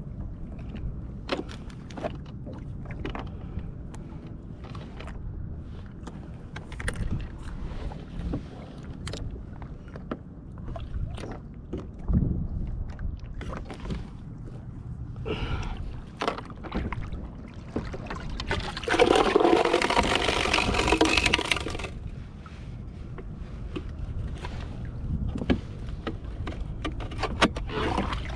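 Water sloshing and gurgling against the hull of a Hobie Revolution 13 kayak under way, with scattered knocks and clicks. About 19 seconds in, a louder rushing splash lasts about three seconds.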